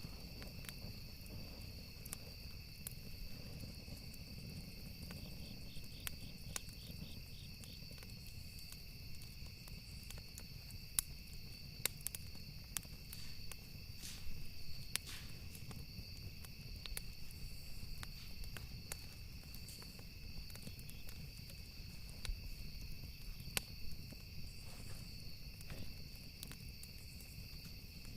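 Campfire wood crackling, with scattered sharp pops, over a low rumble and the steady trill of crickets; a pulsing cricket chirp joins in around five to eight seconds in.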